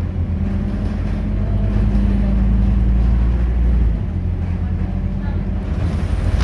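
Scania K230UB bus's five-cylinder diesel engine running with a steady low drone, which eases about four seconds in.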